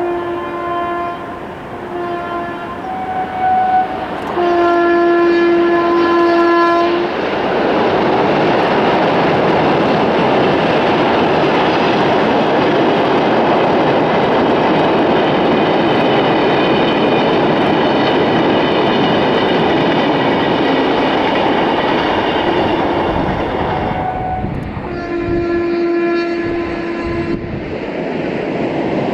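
Passenger train's horn sounding several short blasts and then one long blast. The train then passes close by with a loud, dense rush of wheel and rail noise for about seventeen seconds, and a further horn blast near the end.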